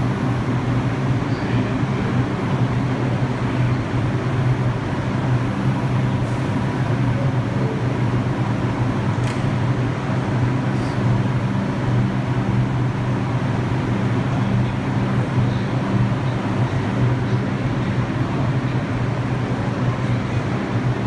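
Steady, unchanging hum of a New York City subway train standing at the terminal platform, its onboard equipment running, with a few faint clicks.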